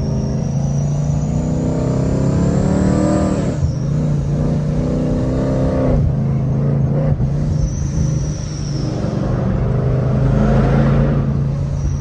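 Car engine accelerating hard through the gears: its pitch climbs for about three and a half seconds and drops sharply at a shift, climbs again until about six seconds in, and rises again near the end, over a steady low engine drone.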